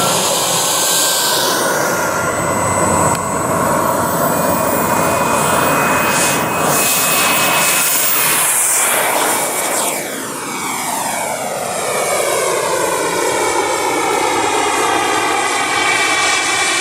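A 1/8-scale radio-controlled L-39 model jet in flight, its engine giving a steady high whine over a loud rushing noise. About ten seconds in it passes by, and the tone sweeps with a phasing swirl as it flies away.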